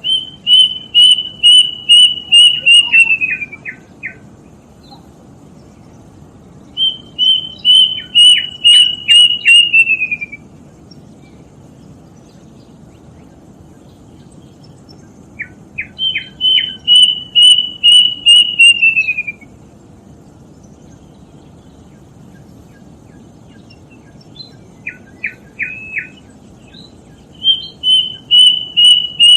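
Plaintive cuckoo (kedasih) singing: runs of a dozen or so quick whistled notes, each run falling in pitch at its end. The runs repeat about every 8 to 10 seconds, with a short burst of a few notes in between near the end.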